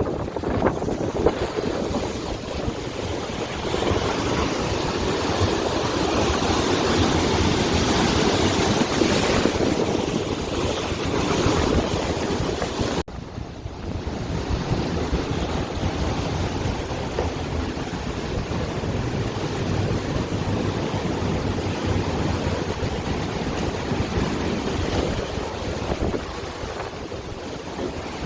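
Steady rush of water with wind noise on the microphone. The sound breaks off abruptly about thirteen seconds in and picks up again at a similar level.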